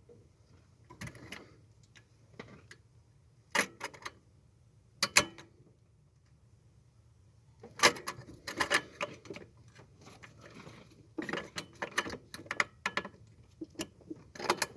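Small metal parts of a turbo wastegate actuator and its linkage clicking and rattling as they are worked by hand, in irregular clusters of sharp clicks with short gaps between.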